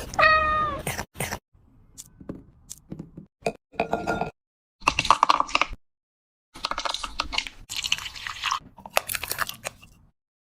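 A cat meows once at the start, a short call falling in pitch. Later come several irregular bursts of crunching and rustling noise.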